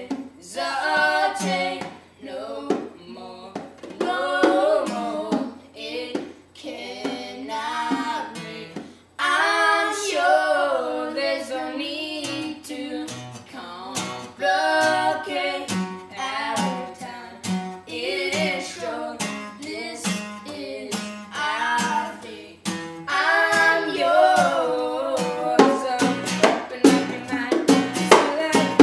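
A voice singing over a strummed acoustic guitar, in a live cover of a pop song.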